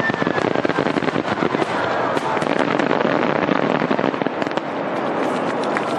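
Fireworks going off in a dense, rapid crackle of pops with no pauses.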